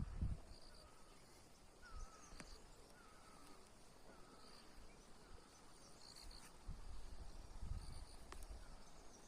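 Faint forest ambience: insects chirping in short high pulses about once a second, with a softer wavering call repeating lower down. Low rumbles come and go, loudest at the very start and again late on.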